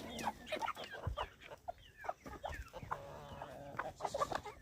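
A flock of chickens clucking and calling, many short calls that often fall in pitch, overlapping one another.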